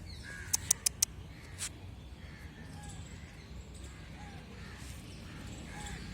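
Faint outdoor background with short bird calls repeating every second or so, and a quick run of four sharp clicks about half a second in, followed by one weaker click.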